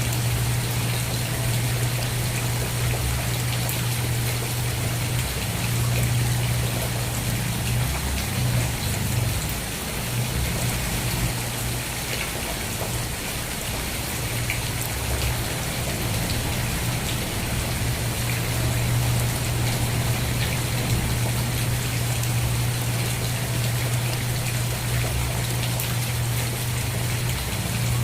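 Steady rain falling, with scattered drop ticks over an even hiss and a strong, steady low rumble beneath it.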